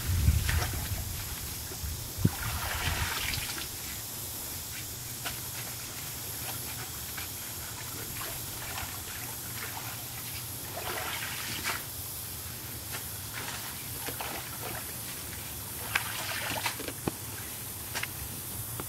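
Water sloshing and trickling in several spells about a second long, as a rake or paddle stirs the water around the kayak, with a few light knocks between them.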